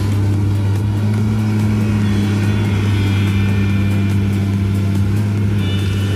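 Engine of a heavy machine running steadily at an even pitch, with a faint high whine joining about two seconds in.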